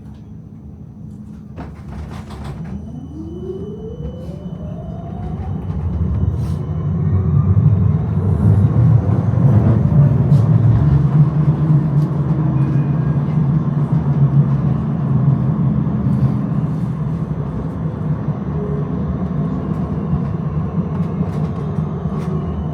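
Electric tram heard from inside the car, pulling away and gathering speed: the traction motors whine with a pitch rising steadily over several seconds while the wheels rumble on the rails, the rumble growing louder and then running on steadily at speed.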